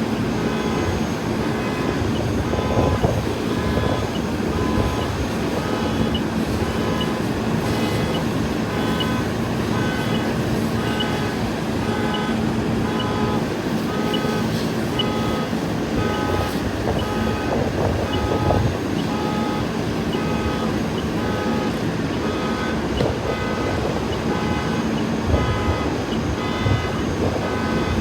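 Vehicle engine idling with a steady hum, under an electronic warning beeper that sounds over and over, a little more than once a second, like a vehicle's backup alarm.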